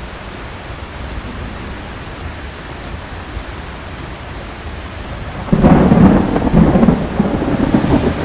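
Steady heavy rain, then about two-thirds of the way through a loud clap of thunder breaks in suddenly and rumbles on in rolling waves, still going at the end.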